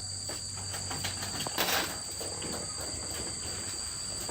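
Insects chirring steadily in a high, even drone, over a low steady hum, with a brief scrape or knock about one and a half seconds in.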